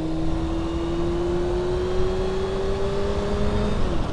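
Sport motorcycle engine running on the move, its note climbing slowly as the bike gathers speed, then falling away near the end. Wind rushes over the microphone throughout.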